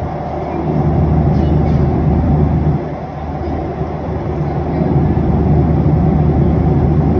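Boeing 737-800's CFM56-7B jet engines running at high power: a loud, steady rumble with a low hum that swells about a second in and dips briefly near the middle.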